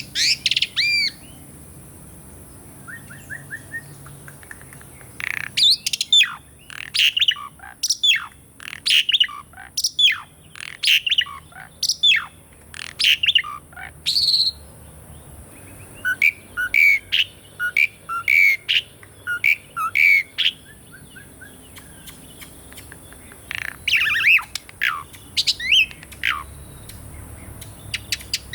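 Asian pied starling (jalak suren) singing: bursts of rapid sharp whistles, chirps and squawks, with short pauses between phrases. A steady high hiss runs underneath.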